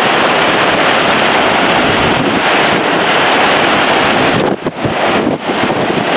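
Typhoon wind blowing hard, a loud steady rush with wind buffeting on the microphone, easing for brief moments about four and a half and five and a half seconds in.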